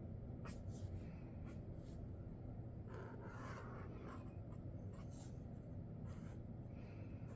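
Sharpie Creative Marker tips drawing on paper: a string of short, faint strokes, with a longer stroke about three seconds in.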